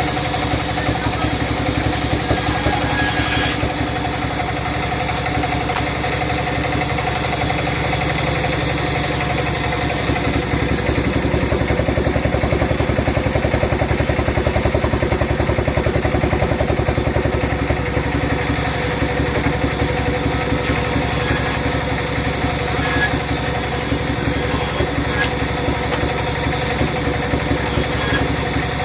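Sawmill engine running steadily with a fast, even firing pulse, a little louder for a few seconds in the middle.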